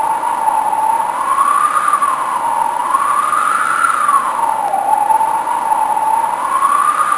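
A wailing siren: a single tone rising and falling slowly in pitch, about once every two seconds, over a steady hiss.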